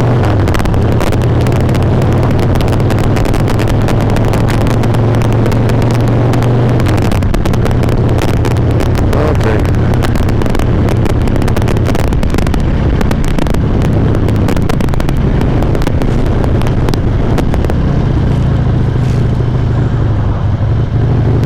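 Harley-Davidson V-twin engine and exhaust running steadily while riding, heard through a helmet-mounted microphone, with dense crackling clicks throughout: a recording fault the rider suspects is the mic clipping.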